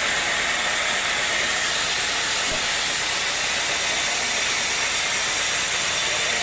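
Steady, even hiss of machinery running, with no strokes or breaks.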